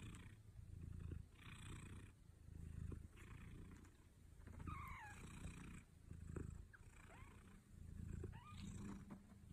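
Cat purring faintly in waves about a second long, rising and falling with each breath, with a few short high squeaks in the middle and near the end.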